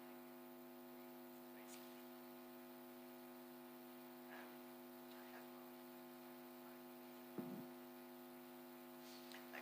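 Near silence with a steady electrical hum in the recording, broken by a few faint, brief sounds.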